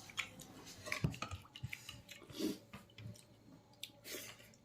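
A person chewing pork leg, with irregular small clicks and mouth noises.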